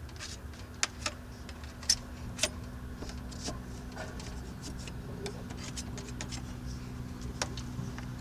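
Irregular light clicks and knocks of hand tools working at an RV side vent to pry it loose, with a few sharper taps about a second, two seconds and two and a half seconds in and one near the end, over a steady low hum.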